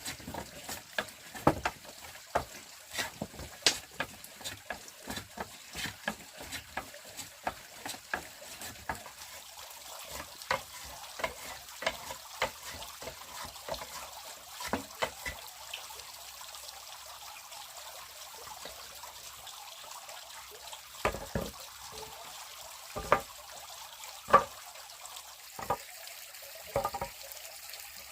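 Water trickling steadily, with many short clicks and knocks, quick and frequent at first, then sparser, with a few louder knocks later on.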